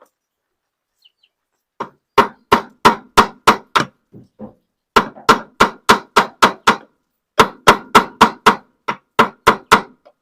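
Hammer blows driving a replacement washing machine bearing into its press-fit seat. Three runs of quick strikes, about three a second, with short pauses between runs.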